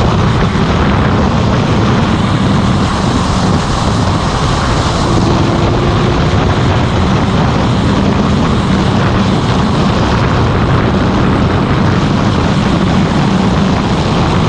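Motorcycle running steadily at road speed, its engine note low under a heavy, even rush of wind over the microphone. The sound cuts off suddenly at the end.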